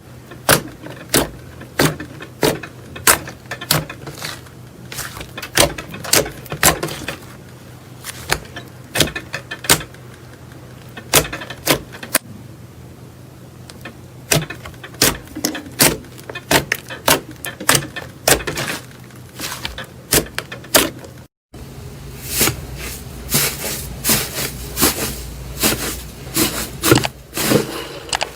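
Slime being squeezed and poked by hand, giving a string of sharp, irregular clicks and pops over a faint steady hum. After a short break about three quarters of the way through, the pops come thicker and faster.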